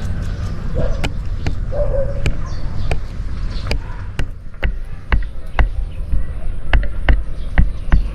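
Repeated sharp knocks with deep thuds, irregular at about one to two a second, heavier in the second half.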